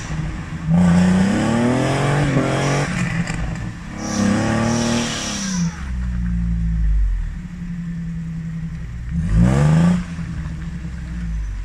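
A vehicle engine revs up three times, its pitch rising with each burst and dropping back to a steady run between, while a stuck Jeep is winched out of a deep mud rut.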